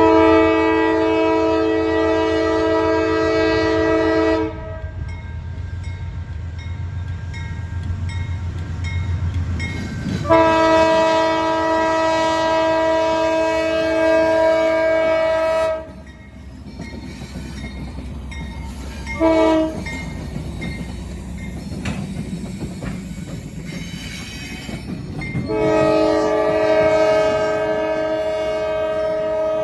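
Freight locomotive air horn, several tones together, sounding the grade crossing signal: two long blasts, one short, one long. The low rumble of the train runs underneath.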